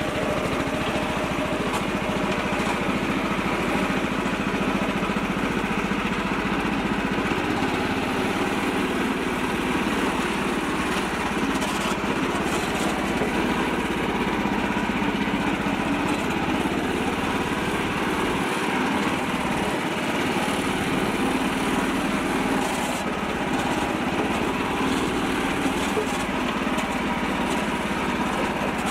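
Small tractor engine running steadily at an even speed.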